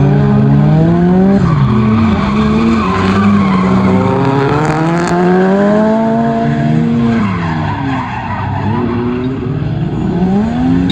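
Drift car engine revving hard, its pitch climbing and dropping several times under the throttle, held high for a few seconds in the middle, with tyres squealing as the car slides.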